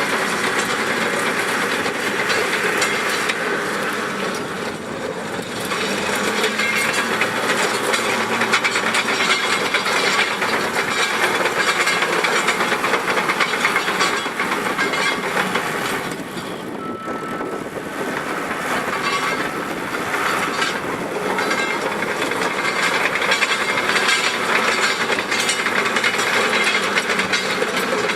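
Caterpillar D4G LGP track-type tractor running and travelling, its diesel engine and steel tracks clattering steadily, easing off briefly twice.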